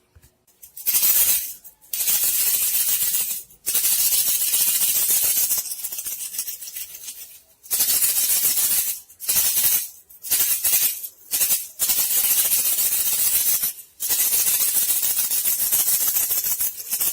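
Bandicoot-rat lure sound: a dense, hissy rattle in repeated bursts of one to three seconds with short gaps between them.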